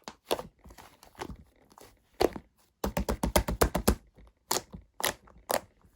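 A shaving-foam mixture being squished and folded by hand, giving sharp sticky pops and crackles. Single pops come every half second or so, with a quick run of about ten pops a little past the middle.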